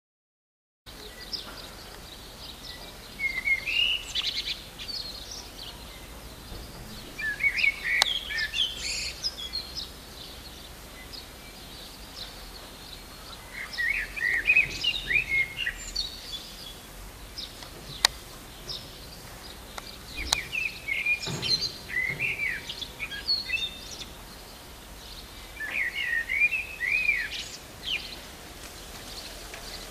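A songbird singing in short, chirpy phrases a few seconds apart, over a faint steady outdoor background. The sound begins about a second in, and a few sharp clicks cut through the song.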